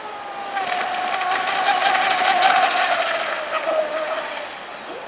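Pro Boat Stiletto RC boat's brushless motor whining at speed as the boat runs past, the whine slowly dropping in pitch. A rapid rattle of the hull slapping the water builds through the middle and fades near the end, while the sound swells and dies away.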